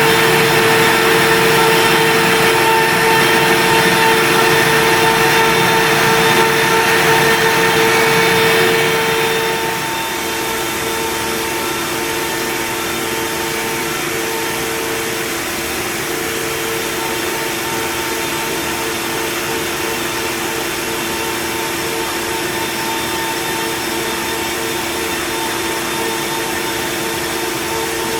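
WorkBee CNC router running, with a steady high whine from its spindle motor. The hissing cutting noise is louder for about the first ten seconds, then drops to a quieter steady run.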